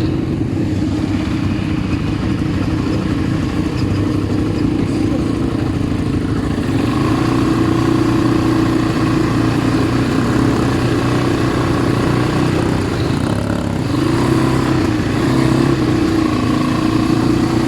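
ATV engine running steadily as the quad is ridden, its note easing briefly about three-quarters of the way through before picking up again.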